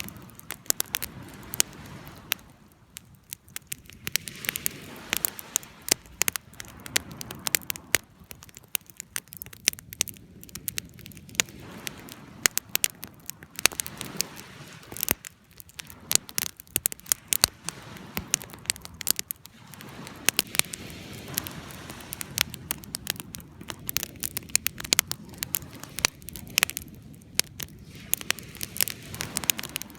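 Wood campfire crackling, with frequent sharp, irregular pops over a low rushing sound that swells and fades.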